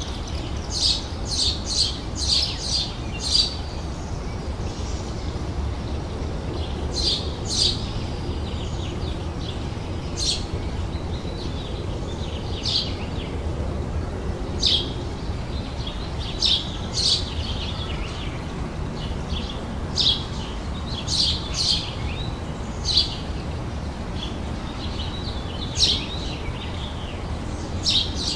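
Small songbirds chirping in short, high calls: a quick run of several chirps near the start, then single chirps and small clusters spaced a second or two apart. A steady low rumble runs beneath them.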